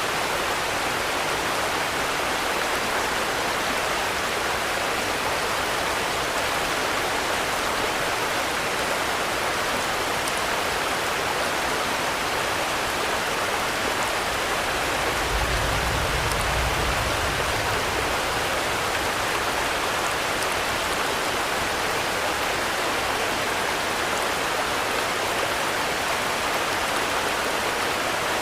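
Steady, even rainfall, a dense hiss of drops. About halfway through, a brief low rumble rises under it for two or three seconds.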